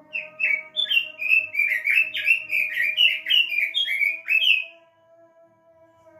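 Pekin robin (red-billed leiothrix) singing a fast, warbling run of chirpy notes for about five seconds, then stopping, over a steady faint hum.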